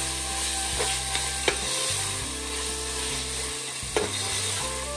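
Onions and tomatoes sizzling in hot oil in a pressure cooker pan while being stirred, with a few sharp knocks of the spoon against the pan.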